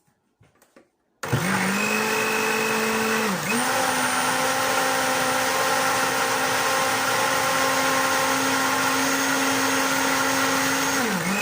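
Countertop blender switching on about a second in and running steadily, blending a carrot, oil and sugar cake batter. Its motor pitch dips briefly and recovers twice, once a couple of seconds after it starts and again near the end.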